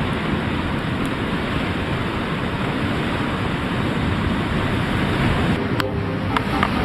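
Steady rush of waves and wind, with a few sharp clicks near the end.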